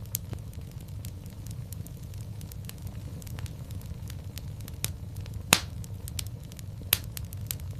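Wood fire in a fireplace crackling: a steady low rumble of flames with irregular sharp snaps and pops, the loudest pop about five and a half seconds in.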